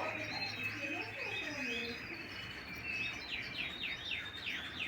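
Canaries chirping and singing, with a run of quick, repeated falling chirps in the second half.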